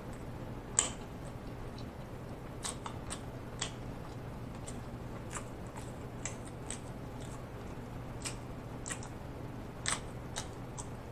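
Close-miked chewing with the mouth closed: scattered wet mouth clicks and smacks at an irregular pace, the sharpest about a second in and another near the end, over a steady low hum.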